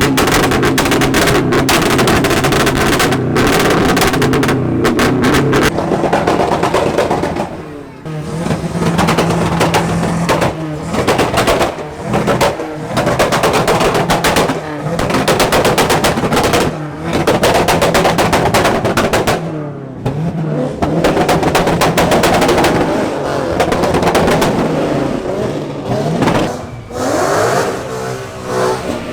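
Car engines revving hard and holding at the rev limiter, the exhaust crackling and popping in rapid bursts, with the engine note rising and falling between pulls.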